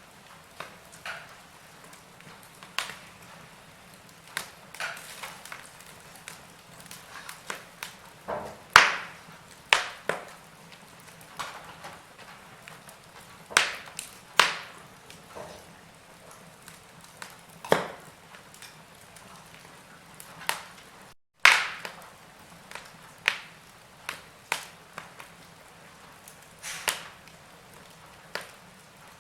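Wood fire crackling in a fireplace: irregular sharp pops and snaps, some much louder than others, over a faint steady hiss. The sound drops out for an instant about two-thirds of the way through.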